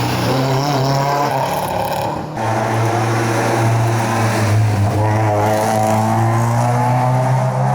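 Historic rally car engine running hard at high revs, its pitch wavering as the throttle is worked. About two seconds in it cuts abruptly to another engine note.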